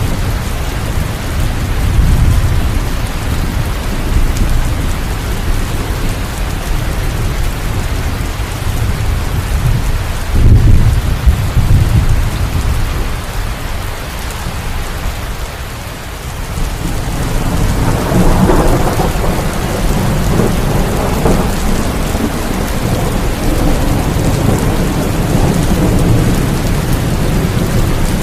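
Steady rain with rolling thunder. The thunder is loudest about ten seconds in, and a longer rumble builds a little past halfway and rolls on.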